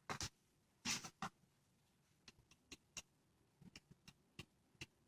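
Faint clicks and taps of a hardback book being handled as its page is turned, the loudest near the start and about a second in, followed by a scatter of smaller ticks.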